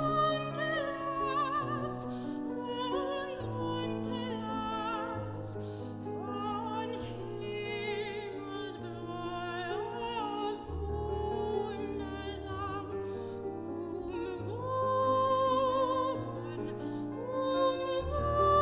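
Operatic soprano singing with vibrato over piano accompaniment, moving to a louder held high note near the end.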